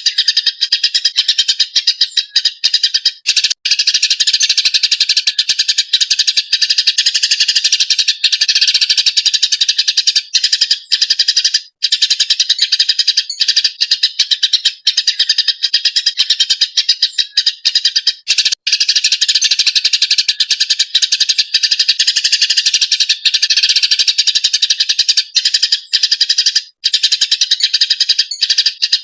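Eurasian tree sparrows chattering excitedly in a fast, unbroken stream of high chirps, with only a few brief breaks.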